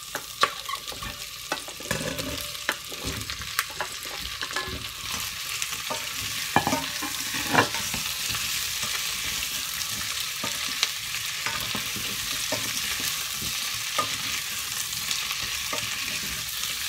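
Cubed raw potatoes scraped off a plate into a saucepan of hot butter and onions, clicking and knocking against the pan and a plastic spatula, then sizzling as they fry and are stirred. The sizzle grows into a steady hiss from about five seconds in, with scattered knocks of the spatula.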